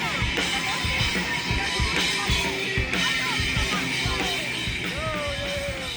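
Rock band music with a drum kit keeping a steady beat under a dense wash of band sound, and a melodic line sliding up and down in pitch.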